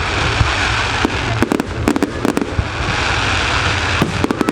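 Fireworks display: a continuous crackling hiss with clusters of sharp cracks and bangs, busiest near the end.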